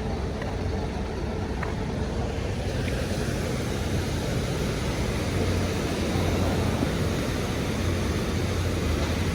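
A moving vehicle heard from inside: a steady low engine hum under road and wind noise, growing a little louder in the second half.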